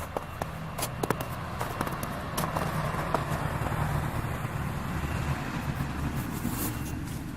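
A motor vehicle's engine running, a low rumble that grows louder through the middle and eases off near the end, with scattered sharp clicks over it.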